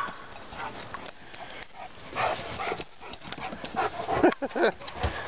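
A rottweiler and a small dachshund at play in a chase: dogs panting and scuffling on dirt, with a few short vocal sounds about four seconds in.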